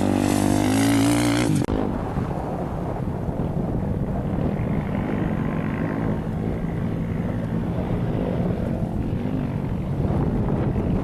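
A racing engine running hard close by with a shifting, rising pitch, cut off abruptly under two seconds in. It gives way to wind rumbling on the microphone over a distant engine's steady drone.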